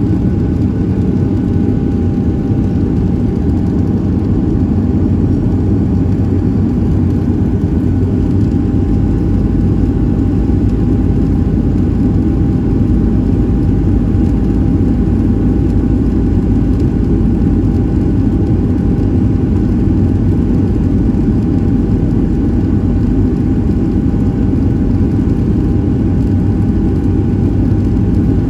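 Steady cabin noise inside a Boeing 737-700 in flight: a deep, even drone of its CFM56-7B jet engines and airflow, with a faint constant whine above it.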